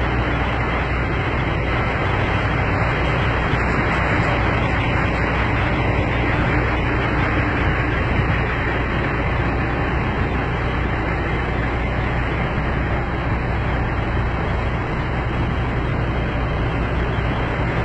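Semi-truck diesel engine idling: a steady low rumble under a constant even hiss.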